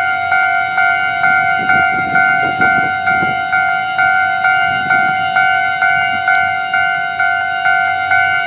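Railway level-crossing warning bell ringing in a steady, even rhythm of about two dings a second, signalling that a train is approaching and the crossing is closed. A fainter low rumble rises underneath from about two seconds in.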